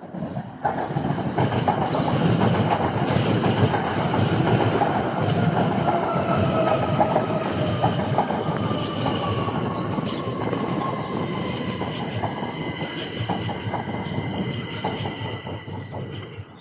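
Electric passenger train running at the platform: a heavy rumble with wheels clicking over rail joints, a motor whine that falls in pitch, and a steady high squeal from the wheels in the later part.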